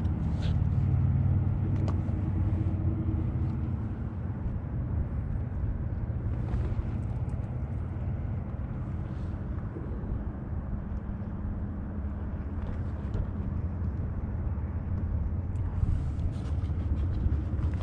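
Steady low engine rumble with a constant hum, with a few faint clicks over it.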